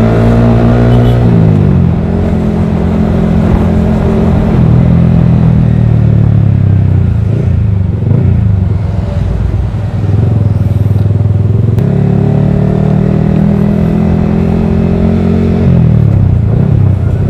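Yamaha R15 V3's single-cylinder engine through a Daytona Evolution aftermarket exhaust, a deep, mellow note. The revs drop about a second in, hold fairly steady, rise again around twelve seconds in and drop once more near the end.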